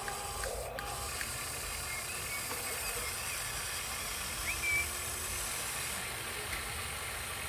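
1/14-scale radio-controlled truck's motor and gearbox running with a steady mechanical whir, with a brief high chirp about halfway through.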